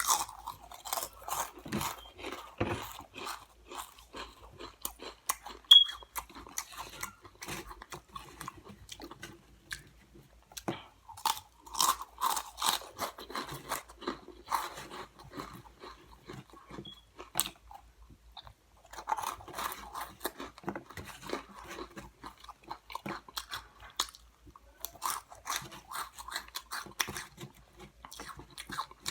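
Close-up chewing and crunching of crunchy Cheetos, in bursts of rapid crackly crunches with short pauses between mouthfuls.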